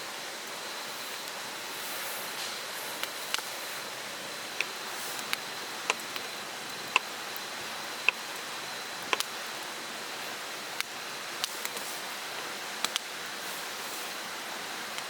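Steady rushing of a mountain stream, with irregular sharp ticks scattered through it about once a second and a faint steady high tone above.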